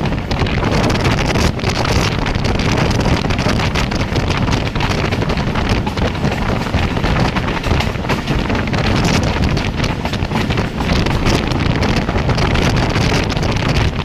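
Express passenger train running at speed: a steady rumble of wheels on the rails with wind rushing hard over the microphone and irregular clatter throughout.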